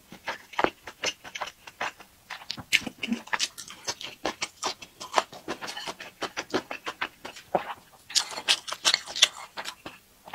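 Close-miked chewing: a steady stream of irregular wet mouth clicks and smacks from a person eating, picked up by a clip-on microphone, growing busier near the end.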